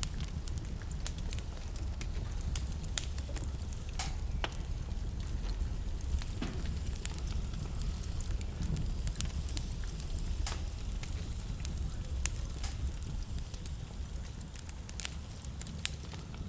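Wood fire burning in a fireplace: a steady low rumble and hiss of flames with irregular crackles and occasional sharper pops from the burning logs.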